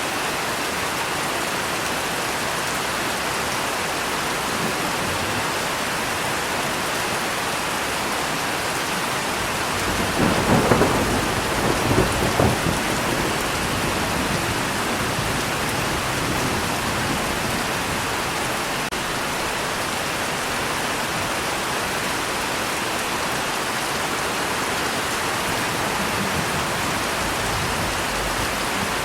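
Steady heavy rain falling, with a roll of thunder about ten seconds in that rumbles for roughly three seconds in two swells before fading back under the rain.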